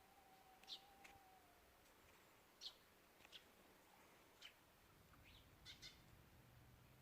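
Faint, scattered short bird chirps, about eight brief high calls spread over several seconds, over a quiet background. A faint low hum comes in near the end.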